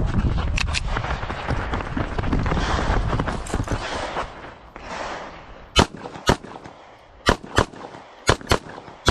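Bul SAS II UR pistol firing in quick pairs of shots, three pairs about a second apart in the second half, with another shot at the very end. Before the shots comes a few seconds of loud rushing, rumbling noise.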